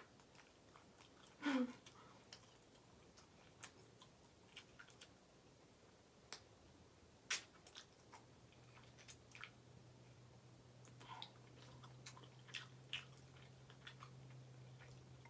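Close-miked chewing of ramen noodles, soft and wet, with scattered short mouth clicks and smacks. The loudest is a sharp click about seven seconds in.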